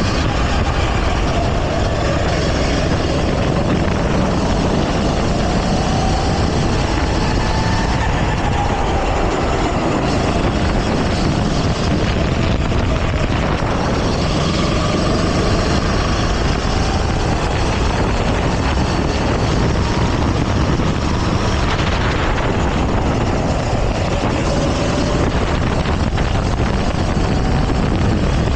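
Go-kart engine heard from on board at racing speed, its pitch rising and falling every few seconds as the kart slows for corners and accelerates out, over steady wind and track noise.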